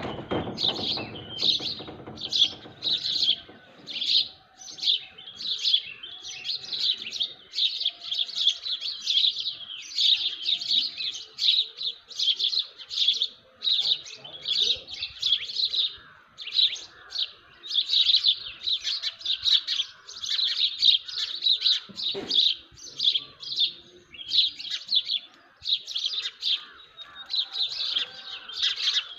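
Small birds chirping in a dense, continuous chorus, quick high chirps following one another about two a second, with fainter calls behind them.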